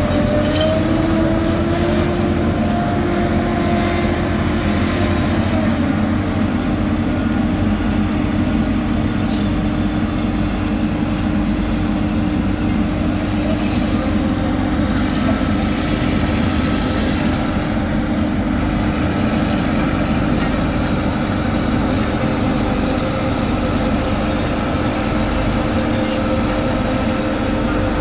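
Heavy diesel road-construction machinery, such as a tracked asphalt paver, running steadily under load with a constant engine hum. The hum rises slightly in pitch about a second in.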